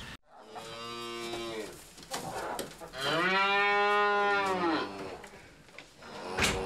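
Two long, drawn-out animal calls, each rising and then falling in pitch, the second louder, followed near the end by a sharp click as another call begins.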